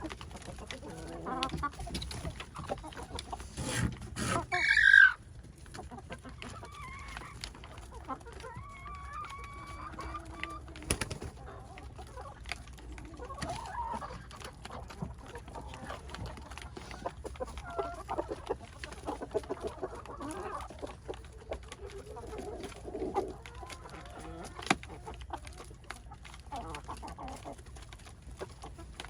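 Backyard chickens clucking on and off, with a rooster crowing loudly once, about four seconds in, for about a second.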